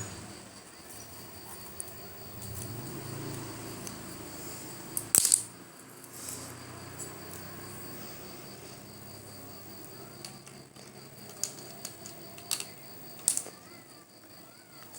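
A steady, evenly pulsing high-pitched insect trill, with a few sharp clicks on top, the loudest a quick cluster about five seconds in.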